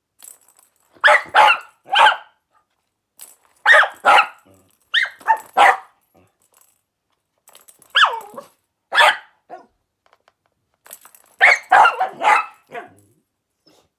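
A dog barking playfully, about a dozen short barks in bursts of two to four with pauses between, while being played with using a toy.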